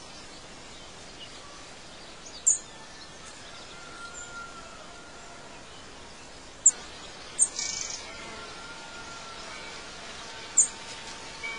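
Wild birds chirping and calling: four short, sharp high chirps a few seconds apart and faint thin whistles, over a steady hiss of outdoor background noise.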